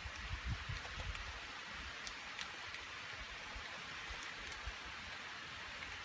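Steady rain during a thunderstorm: an even hiss with scattered ticks of single drops, and a few low thumps in the first second.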